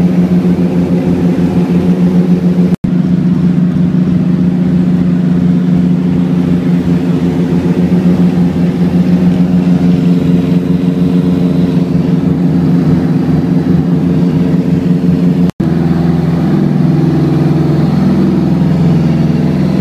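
Piper Seneca's twin piston engines running steadily at power, heard from inside the cabin. The sound cuts out for an instant twice, about 3 seconds and 15 seconds in.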